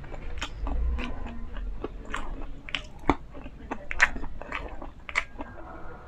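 Close-miked chewing of crispy fried chicken: irregular crunches and wet mouth clicks.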